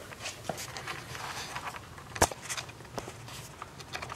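Camera handling noise as the camera is carried: scattered clicks, rustles and footsteps, with one sharp knock about two seconds in.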